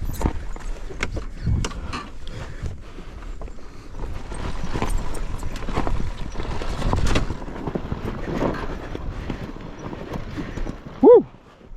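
Irregular knocks and clatter, like a dirt bike and loose rocks knocking on rocky ground. Near the end comes one short, loud call that rises and then falls in pitch.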